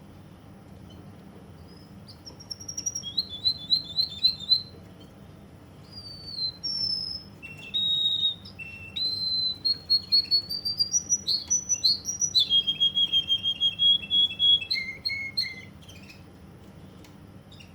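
Russian song canary singing one long phrase that starts a couple of seconds in: rapid repeated trills, quick slurred whistled notes, then a held whistle that drops to a lower held note before the song stops about two seconds before the end.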